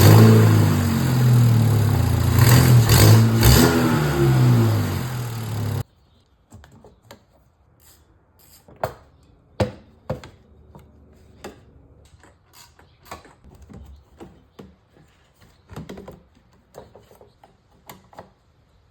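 Volkswagen Jetta GLI's turbocharged engine running and revving up and down with an exhaust leak at the turbo, caused by a bolt that has backed out. It cuts off abruptly about six seconds in, followed by scattered light clicks and knocks of tool work.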